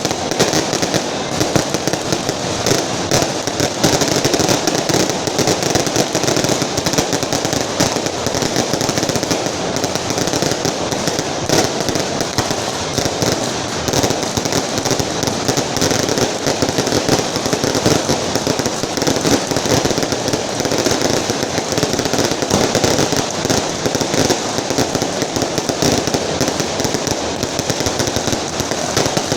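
A firecracker carpet, a long string of firecrackers laid along the street, going off in a loud, continuous rattle of densely packed small bangs.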